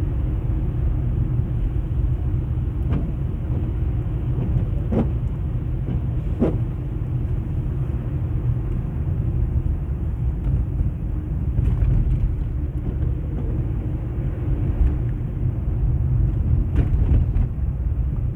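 Steady low rumble of a car driving, heard from inside the cabin: engine and tyres on a snow-covered road, with a few faint short knocks.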